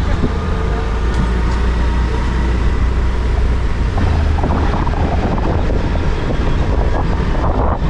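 Motorbike riding along a road: engine and road noise over a deep, steady rumble.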